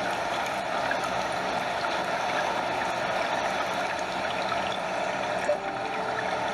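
Stream water flowing over a small waterfall: a steady, even rush of water with gentle lapping close by. A faint short tone sounds briefly about five and a half seconds in.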